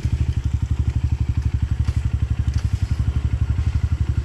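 Dirt bike engine idling, a steady rapid beat of about fifteen pulses a second.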